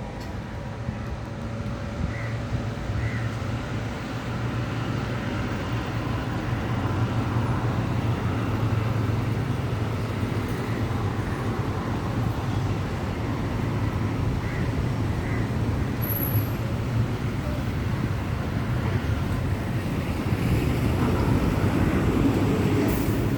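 Steady rumble of road traffic, growing somewhat louder toward the end, with a few faint short high chirps.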